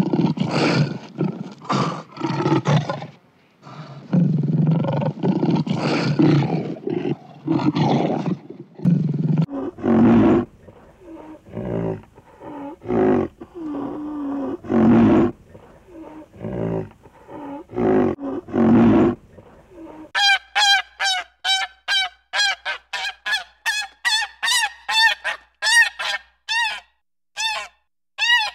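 A run of animal calls. First a lion's deep, rough roars and growls in long pulses. Then shorter, choppier grunting calls. From about two-thirds of the way in, a quick string of short nasal honks, two to three a second, from waterfowl.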